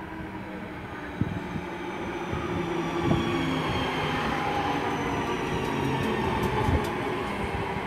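Class 323 electric multiple unit pulling into the platform, growing louder as it nears, with a rumble of wheels on the rails and a faint high whine that slowly falls in pitch as it slows.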